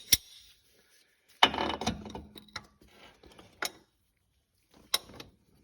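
Metal tools being handled: a few scattered sharp clinks and knocks, with a short rattle about a second and a half in.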